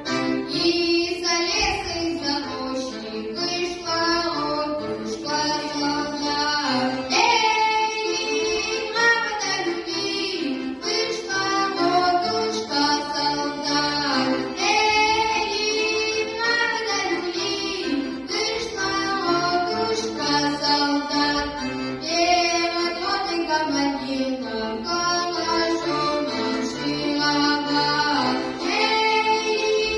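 A child singing a Russian folk song with instrumental accompaniment.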